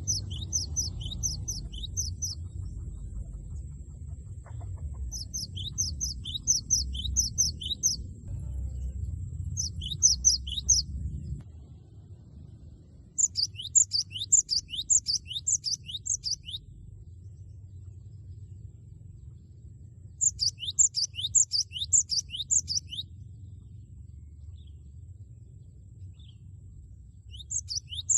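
Cinereous tit (gelatik batu) singing in loud bouts of rapid, evenly repeated sharp high notes, several seconds apart. A low rumble and a faint steady high whine run under the first few bouts and stop about eleven seconds in.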